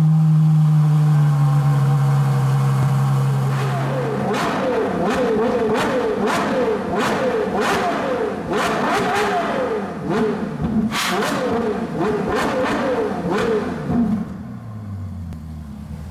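Ferrari LaFerrari's V12 engine held at a steady raised speed for a few seconds, then blipped up and down in quick repeated revs with sharp cracks, before dropping back to a low idle near the end.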